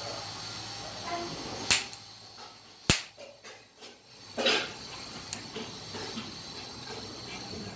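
A few sharp clicks and one loud, very short snap about three seconds in, from switching a 220 V AC supply onto a 1.5-ton air conditioner's capacitor to charge it.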